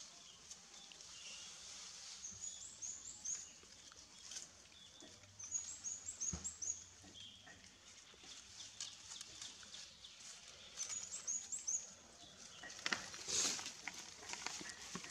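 A bird calling in short runs of high chirps, repeated every few seconds, over dry leaves crackling and rustling as monkeys move across rocky leaf-strewn ground, with a louder rustle near the end.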